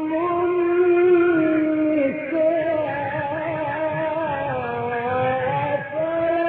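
A man's voice in melodic Quran recitation (mujawwad style), drawing out one long ornamented phrase with the pitch held and slowly wavering, dipping lower about two seconds in and again near the end.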